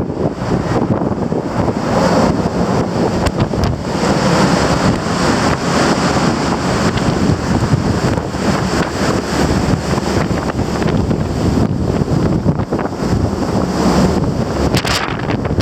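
Strong wind buffeting the microphone, over a steady rush of sea water from a car ferry under way.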